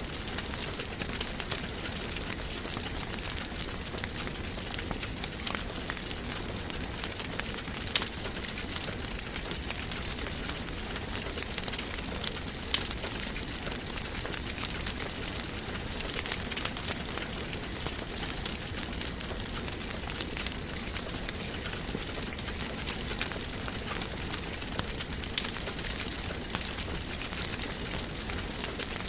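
Wood fire in a fireplace crackling: a steady hiss dotted with many small crackles, with a sharper pop about eight seconds in and another just under thirteen seconds in.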